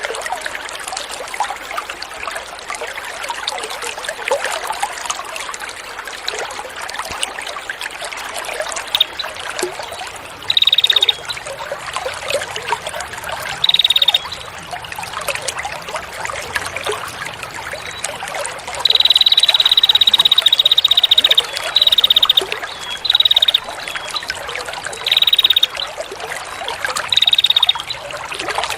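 Water trickling and splashing steadily, broken from about a third of the way in by several loud, high, rapidly pulsed buzzing trills from a songbird on a masteran recording, the longest lasting about two seconds.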